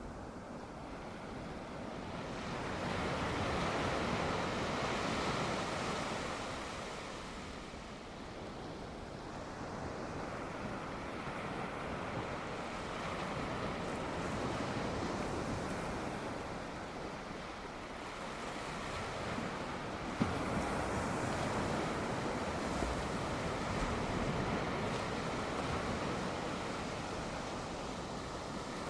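Ocean surf washing onto the shore, swelling and ebbing in slow surges several seconds apart, with a single sharp tick about two-thirds of the way through.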